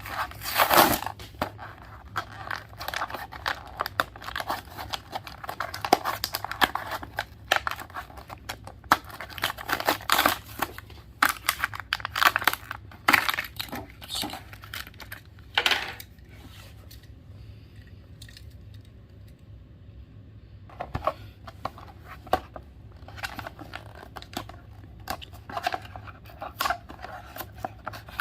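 Cardboard-and-plastic toy packaging being torn and crinkled open by hand, in irregular rasping rips and crackles, with a short lull about two-thirds of the way through.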